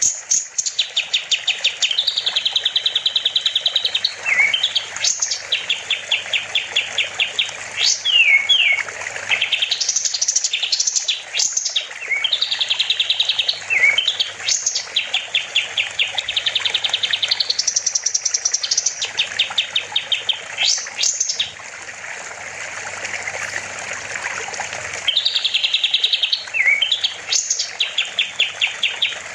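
Kapas tembak songbird singing vigorously in repeated phrases: fast even trills, sharp rising whistles and short falling notes, over a steady rushing hiss of water. The song drops out for a few seconds past the middle, leaving only the hiss, then starts again.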